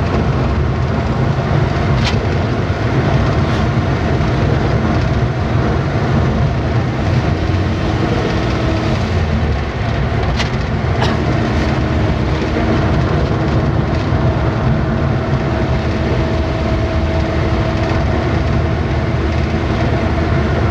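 Steady rumble of a vehicle driving along a road, with engine and tyre noise throughout and a few sharp rattles or knocks scattered through it.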